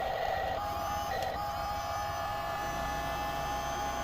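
Small electric motor of an RC toy truck or excavator giving a steady high whine, with brief dips about half a second and a second in.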